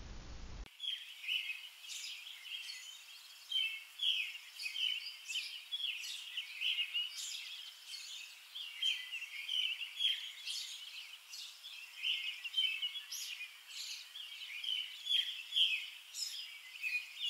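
Small songbirds chirping, many short high chirps overlapping one another without a break, starting under a second in.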